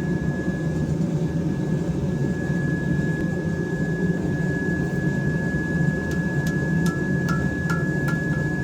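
Hammer blows on hot knife steel over an anvil: about six seconds in, a run of seven strikes, two or three a second, each with a short metallic ring, forging the blade's bevel. A steady low drone and a thin high whine run underneath.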